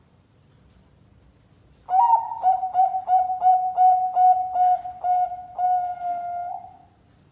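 Zebra dove (perkutut, Bangkok strain) singing its cooing song. After a quiet start, a rapid stuttering run of short coos begins about two seconds in and ends in a longer drawn-out coo near the end.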